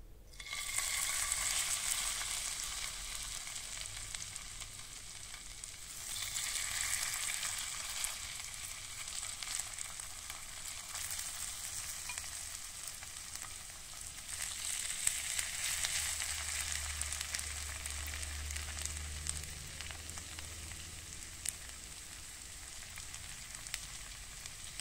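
Shredded potato frying in hot vegetable oil in a nonstick pan: a steady sizzle that starts about half a second in and swells louder twice along the way.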